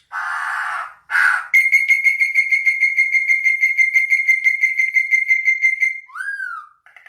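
A bird calling: two short harsh rasps, then a long fast trill on one steady high whistled note for about four seconds, ending with a short rising-and-falling whistle.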